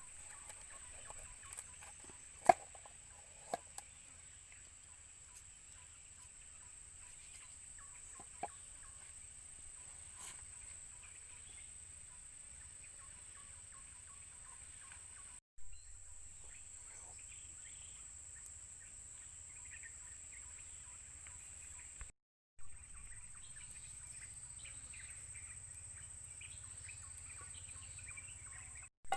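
Steady high-pitched drone of insects, with scattered bird calls and a few sharp clicks, the loudest about two and a half seconds in. The sound drops out briefly twice.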